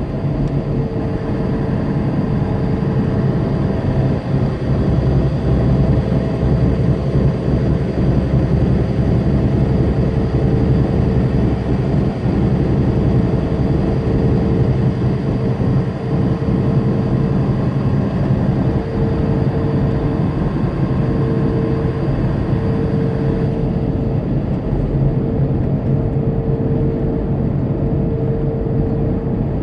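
Tractor-trailer cruising on the interstate, heard from inside the cab: a steady diesel engine drone under constant road and tyre noise.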